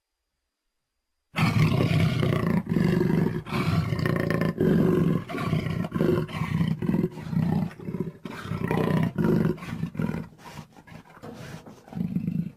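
Designed Baryonyx dinosaur vocalization: a long run of deep roars and growls that starts about a second in, broken by many short pauses. It grows choppier and quieter near the end, then a last loud roar cuts off abruptly.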